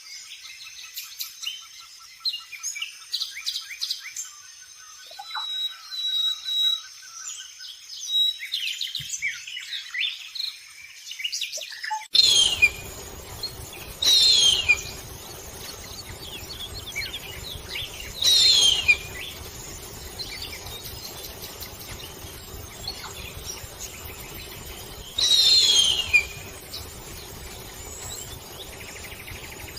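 Birdsong of high, quick chirps and trills, then a sudden change to four loud, high screams, each falling in pitch over about a second. The screams are typical of a harpy eagle.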